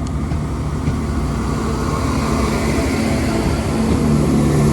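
Class 168 diesel multiple unit pulling out of the station, its underfloor diesel engines running with a steady low note that grows louder toward the end as it accelerates past.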